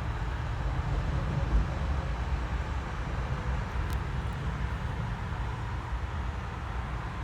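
A steady low rumble of outdoor background noise, with a faint click about four seconds in.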